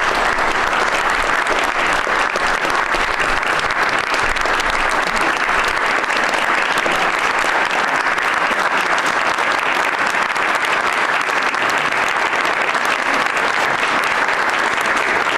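Sustained applause from an audience, many hands clapping at once, steady and dense.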